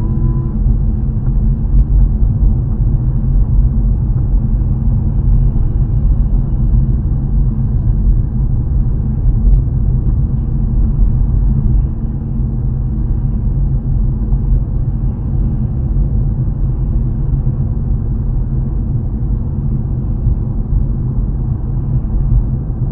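Steady low rumble of a car driving on a wet road, tyre and engine noise heard from inside the cabin.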